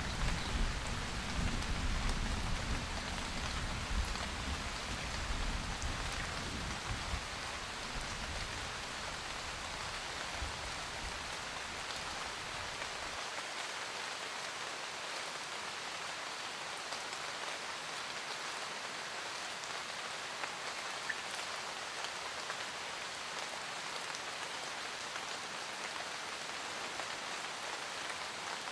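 Steady rain pattering on a roof. A low thunder rumble dies away over the first ten seconds or so, leaving only the even rain.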